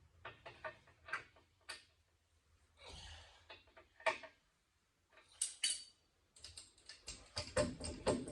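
Scattered sharp metallic clicks and clinks of hand tools and a jack being worked at the base of a heavy machine, a few briefly ringing, with a quick run of clicks near the end.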